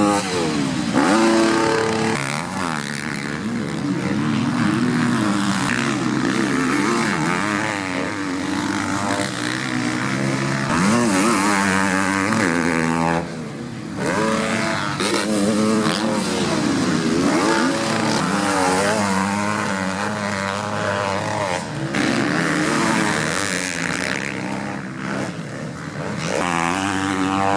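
Several motocross bikes racing, their engines revving up and down with throttle and gear changes, with more than one engine pitch overlapping. The sound drops briefly a little past halfway.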